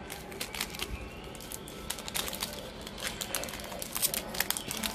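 Foil wrapper of a Pokémon card booster pack crinkling as it is handled and opened: a quick, irregular run of sharp crackles.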